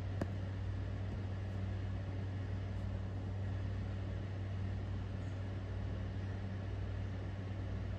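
Steady low hum with a soft even hiss: the room tone of a running appliance, with one faint click just after the start.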